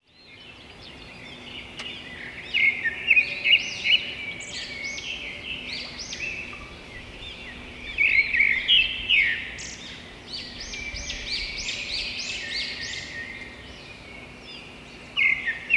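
Birds chirping and singing, many quick arching chirps that come in busy clusters about three seconds in, again around nine seconds, and just before the end.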